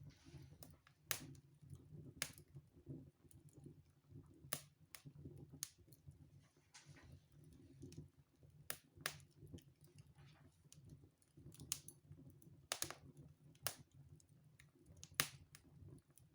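Wood fire in a fireplace crackling, with sharp pops at irregular intervals, a second or two apart, over a faint steady low hum.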